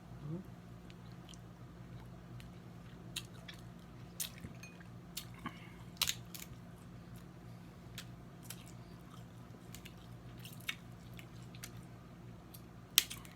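Eating snow crab legs: scattered cracks and clicks of shell breaking, with chewing, and one sharp crack near the end, over a low steady hum.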